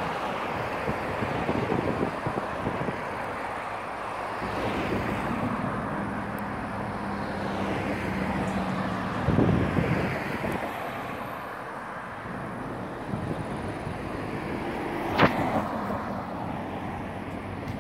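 Steady vehicle noise with wind on the microphone. An engine hum holds for a few seconds in the middle, and a single sharp knock sounds near the end.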